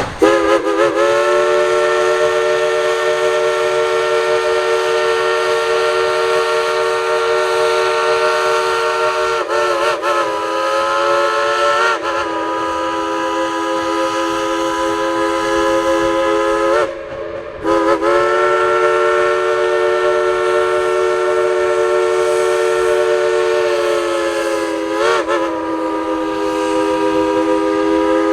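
Crosby three-chime steam whistle on 1938 steam locomotive No. 70, blown in long chord-like blasts. The pitch sags and swells several times as the engineer works the valve to play a tune. The whistle breaks off briefly past the middle and then sounds again.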